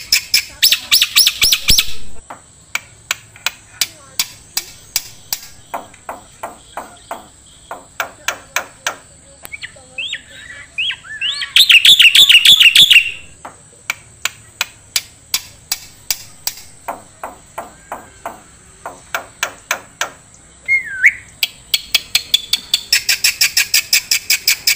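Jalak (starling) calling: a long run of sharp, evenly repeated chips, about three a second, with faster rapid-fire runs at the start and end. About halfway through comes a loud, fast warbling phrase, and later a single short rising whistle.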